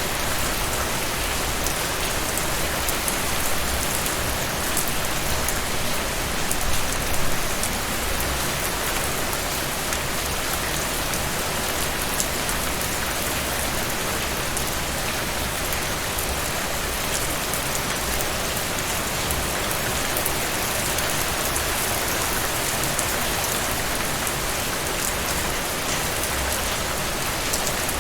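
Heavy rain falling steadily, a dense even hiss with the ticks of individual drops scattered through it.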